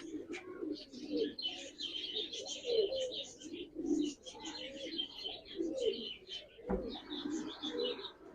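Domestic pigeons cooing over and over, with high chirping above the coos. A single sharp knock comes about two-thirds of the way through.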